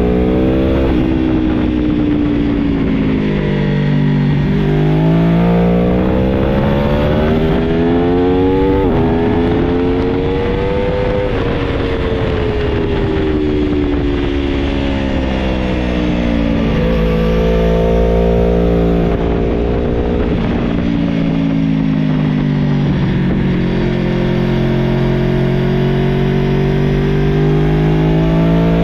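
2021 Aprilia Tuono Factory 1100's V4 engine accelerating hard and slowing again through a lap's corners, its pitch climbing under throttle and falling away when braking and shifting down, several times over.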